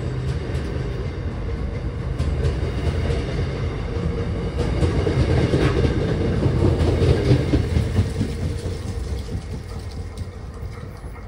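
MBTA commuter rail bilevel coaches rolling past on the platform track: a steady wheel-on-rail rumble with clicks as the wheels cross rail joints. The sound is loudest a little past the middle and fades as the last car clears.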